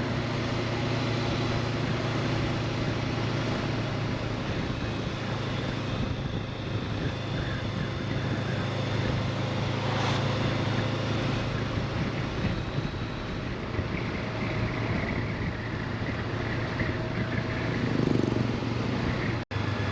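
Honda CB500X parallel-twin engine running steadily while riding, under a constant rush of road noise. The sound drops out for an instant near the end.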